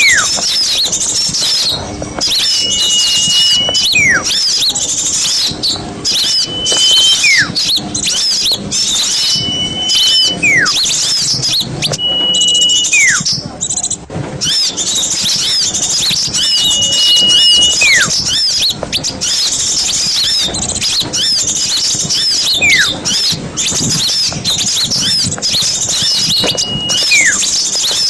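Loud, dense chattering and chirping of a flock of small birds, used as a lure call. Through it a clear whistle repeats about every two to three seconds, a held note that then drops sharply in pitch.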